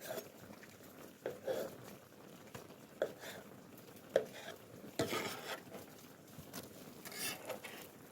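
Cooking utensils knocking and scraping on a cast-iron cauldron-lid pan as tteokbokki is stirred: a handful of irregular clinks and scrapes, the busiest stretch about five seconds in.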